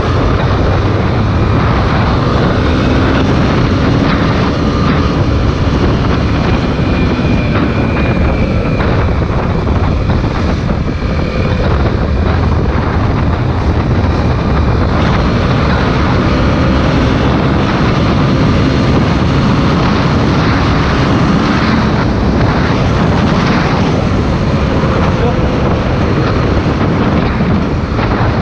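Honda XR250 Tornado's single-cylinder engine running under way, its pitch rising and falling slowly as the rider opens and eases the throttle, under heavy wind rush on the microphone.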